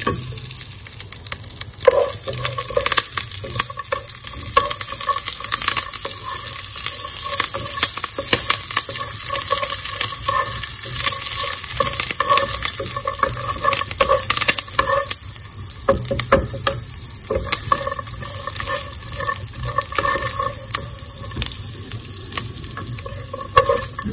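A tempering of peanuts, lentils, dried red chillies and curry leaves sizzling in hot oil in a nonstick kadai, with frequent small pops and crackles. A wooden spatula stirs and scrapes through it while the dals fry until they change colour.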